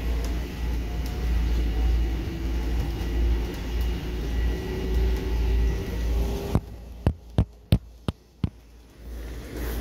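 Steady low rumble and hum of a Long Island Rail Road M7 electric railcar running, heard from inside the car, with a faint whine drifting slightly upward in pitch. Near the end the rumble drops away for about three seconds, broken by about six sharp clicks, before it returns.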